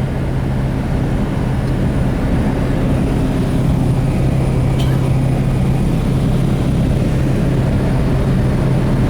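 Steady drone of a small propeller airplane's engine and propeller, with a strong low hum over a rushing noise, growing a little louder about three seconds in.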